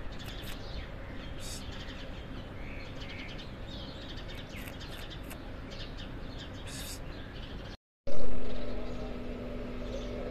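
Small birds chirping over steady outdoor background noise. About eight seconds in, the sound drops out for a moment, then a sudden loud noise fades over about a second into a steady low hum.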